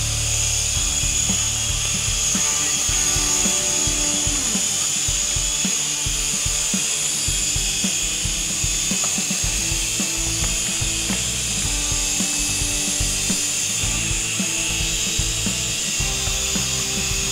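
Syma S107 micro helicopter's small electric motors and coaxial rotors running, a steady high whine with a rushing hiss.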